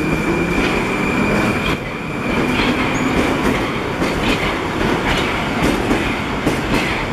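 Train running alongside the platform: a loud, steady noise of wheels on rails, with a high steady whine that stops about two and a half seconds in.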